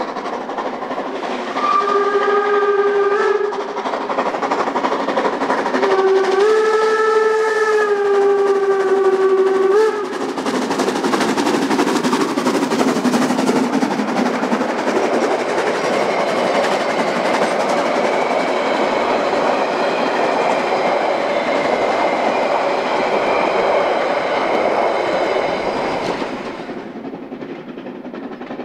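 Harz narrow-gauge railway steam locomotive sounding its steam whistle twice, first a short blast and then a longer one of about four seconds. After that the locomotive is working hard uphill, its exhaust beats coming fast and loud, until the sound drops away sharply near the end.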